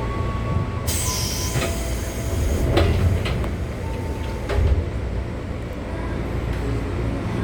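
Electric commuter train with a steady low rumble. About a second in, a burst of air hiss lasts nearly two seconds, and a few sharp clunks follow.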